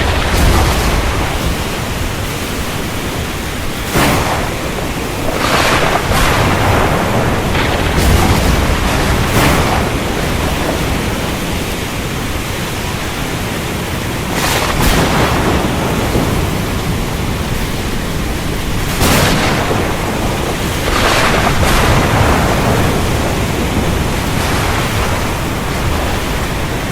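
Thunderstorm: a steady rush of heavy rain with repeated bursts of thunder, about eight cracks and surges of rumble spread through, most of them in the first ten seconds.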